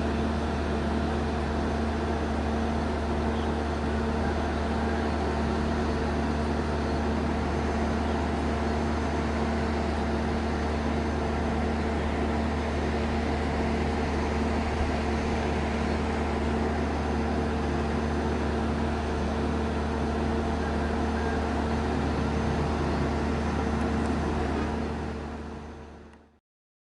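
Steady low drone and hum of a passenger train on the KA Dhoho service, unchanging, then fading away near the end.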